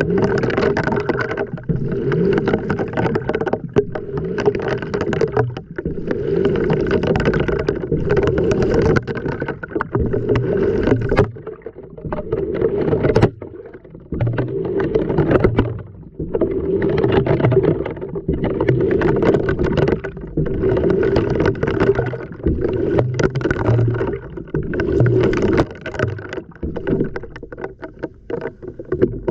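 Water sloshing and churning in a washing machine drum while it turns, heard from a camera tumbling inside the drum. It comes in surges a second or two long with short breaks between them.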